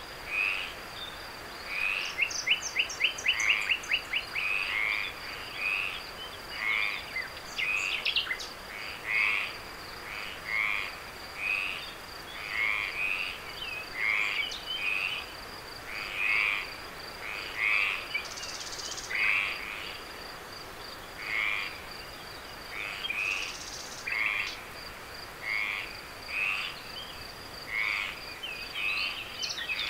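A night chorus of calling animals: one call repeated about once a second over a steady high trill, with a quick run of clicks about two to four seconds in.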